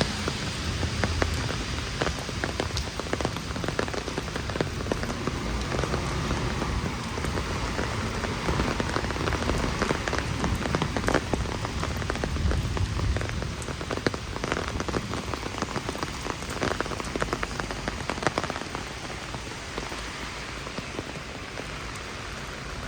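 Heavy rain falling: a steady hiss, with many close drops ticking sharply on top of it.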